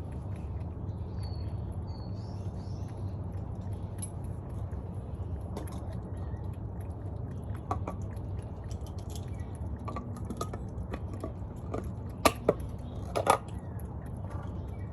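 A cat eating wet cat food, chewing with small clicks and a few sharper clicks near the end, over a steady low rumble.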